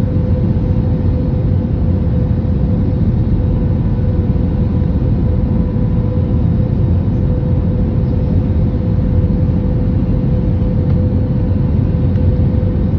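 Steady roar of an airliner's cabin on final approach: jet engines and airflow, with a constant hum running through it.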